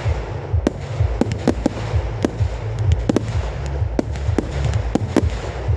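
Fireworks going off: a rapid, irregular series of sharp bangs and cracks, several a second, over a continuous low rumble.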